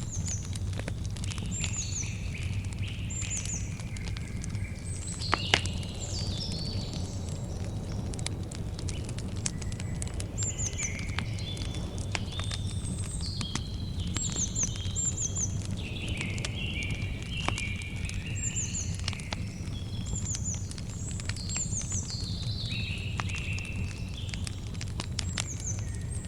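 Campfire crackling with scattered pops over a low, steady rumble, with one louder pop about five seconds in. Birds chirp throughout in short, quickly repeated notes that slide downward.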